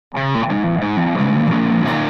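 Music starting abruptly: a distorted electric guitar playing a line of short notes that change every few tenths of a second.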